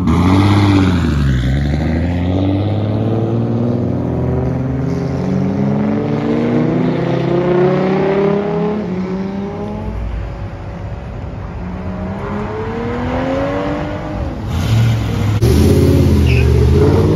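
Car engines revving and accelerating, one after another. Near the start a Toyota Supra's engine revs, dropping and climbing in pitch. Through the middle engines rise in pitch as cars pull away, and a Ford Mustang's engine revs loudly near the end.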